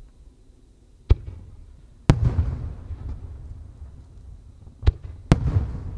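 Aerial firework shells going off in two pairs: each a sharp crack followed about a second later by a deeper boom that rolls on in a long echo.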